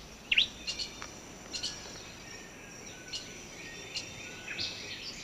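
Rainforest ambience: scattered short bird chirps and calls, one sweeping down in pitch about half a second in, over a steady high insect drone.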